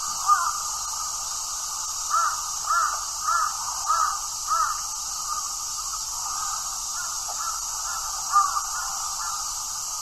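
A bird calling outdoors: a quick series of five short calls about half a second apart, with a single call near the start and another near the end, over a steady high hiss.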